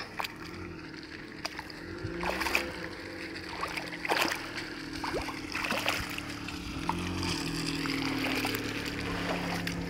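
A vehicle engine running, its pitch shifting up and down, with repeated splashes and sloshing of water.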